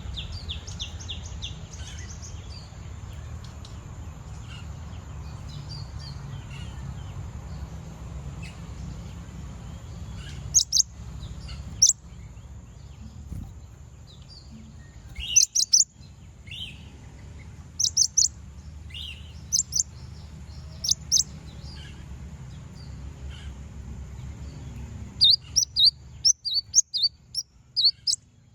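Kolibri ninja (sunbird) calling to a rival: sharp, high chirps in short clusters with pauses between, ending in a fast run of chirps near the end. A steady low hum runs underneath.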